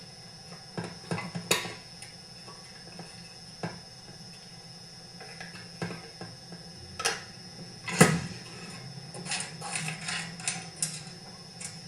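Metal hand tools and small chainsaw parts clinking and tapping as bolts and screws are fitted at the bench: scattered irregular knocks, the loudest about eight seconds in.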